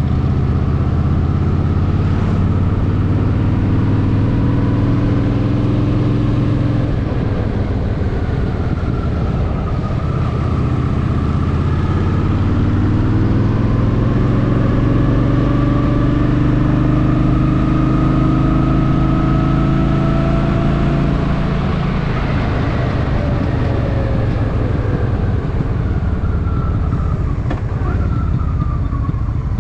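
Honda Shadow VT750's V-twin engine running under way. Its pitch climbs in two long pulls as it accelerates, then drops about two-thirds of the way through as the throttle is rolled off.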